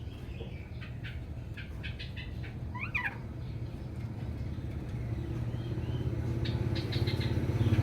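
Oriental magpie-robin calling: scattered short chips and a quick gliding call about three seconds in. Under it runs a low engine hum that grows louder toward the end as a motor vehicle approaches.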